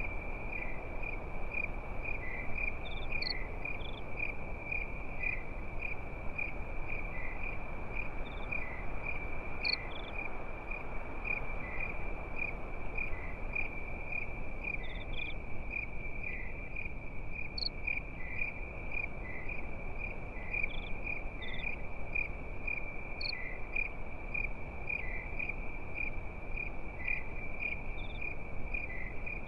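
Crickets chirping in a continuous, rapidly pulsing high trill, with a few scattered higher chirps and a steady low background hiss.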